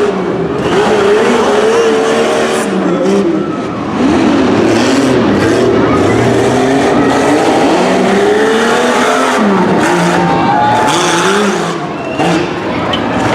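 Jeep Cherokee XJ's engine revving hard and falling back again and again as the truck runs a tough-truck course, its pitch climbing and dropping every second or so. It eases off briefly about four seconds in and again near the end.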